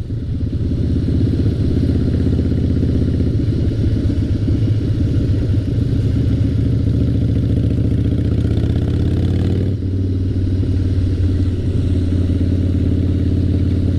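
Harley-Davidson Twin Cam 88 V-twin running hard through straight drag pipes while the motorcycle accelerates. The engine pitch climbs, then dips suddenly about ten seconds in, as at a gear change, and climbs on again.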